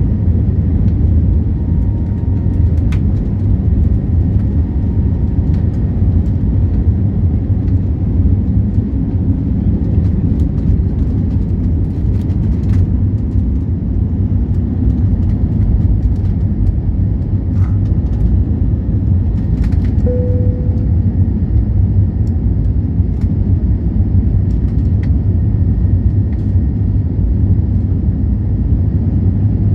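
Airliner's jet engines, a loud steady low rumble, with a few faint scattered clicks and one short tone about two-thirds through.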